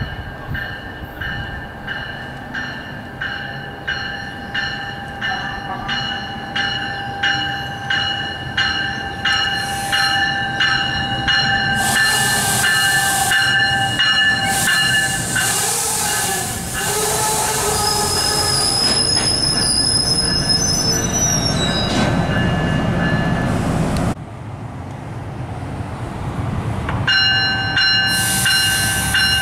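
A bell rings steadily, about two strokes a second, as an NJ Transit Multilevel push-pull train runs into the station. The train's noise grows loud as it passes, and high squeals from the wheels and brakes rise as it slows to stop.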